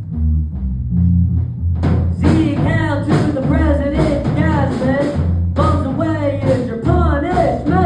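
Live band playing a song, with a steady bass line and drums; a lead voice comes in singing about two seconds in.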